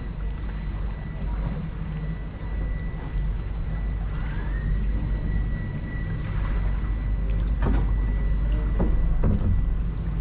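Motorboat engine running on a canal: a steady low rumble with a thin high whine that rises and then holds. A few knocks come in the last few seconds.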